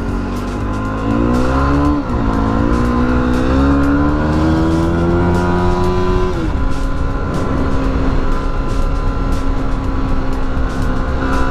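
Yamaha WR250R's 250 cc single-cylinder four-stroke engine accelerating through the gears: its pitch climbs, drops at an upshift about two seconds in, climbs again for about four seconds, then falls as the throttle closes and settles to a steady lower note. A steady low wind rumble runs underneath.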